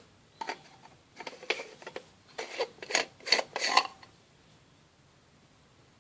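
Manual stainless steel salt and pepper mill being handled: a run of short metallic clinks and scrapes lasting about three and a half seconds, then it stops.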